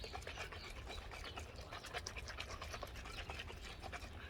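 Plastic bottle of borax activator being shaken by hand, water sloshing and the bottle clicking in quick, irregular strokes as the borax is mixed in.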